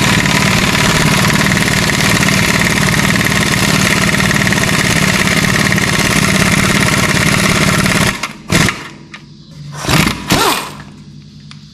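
Impact wrench hammering continuously for about eight seconds, driving a puller's forcing screw against a stuck crankshaft pulley, then stopping and firing three short bursts.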